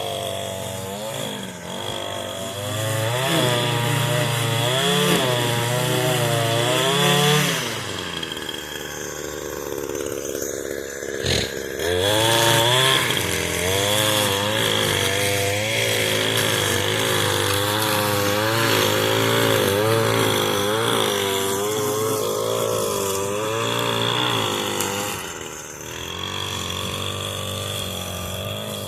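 Echo SRM 225 two-stroke string trimmer running, its engine pitch rising and falling again and again as the throttle is worked. The engine drops back for a few seconds near the middle, with one sharp knock, then picks up again.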